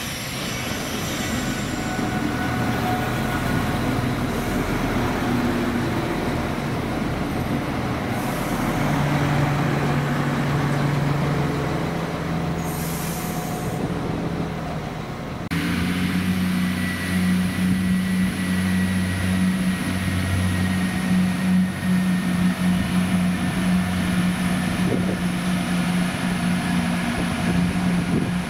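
Irish Rail 22000 Class diesel multiple units on the move: first a railcar running past, with wheel and rail noise and engine tones. About halfway through, another railcar's diesel engine drones steadily with a low, even tone.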